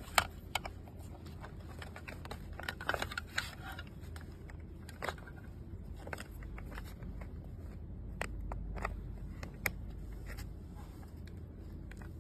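Small hard parts being handled: irregular clicks, taps and short scrapes, the sharpest just after the start and a cluster about three seconds in, over a steady low hum.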